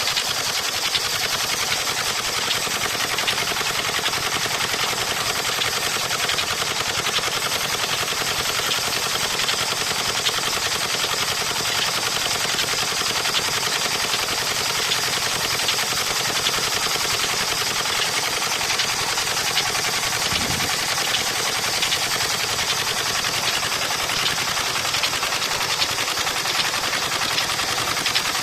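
25 hp Peter diesel engine running steadily with a rapid, even clattering beat.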